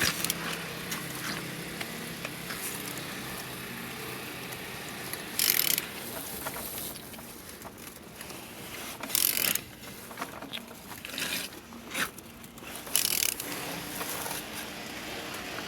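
Renault M9R 2.0 dCi diesel engine being turned over by hand with a ratchet wrench, with ratchet clicking and mechanical turning noise. Three short hissing bursts come about four seconds apart. The engine turns well, with compression on all cylinders.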